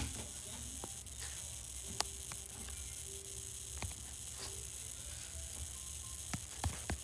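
Subway car standing at a station: the car's equipment gives a steady low hum and hiss, broken by scattered sharp clicks.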